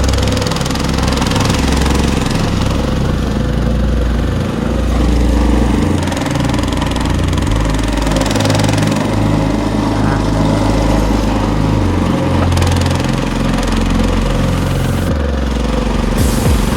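Walk-behind tractor's single-cylinder engine running steadily, its pitch shifting up and down every second or so.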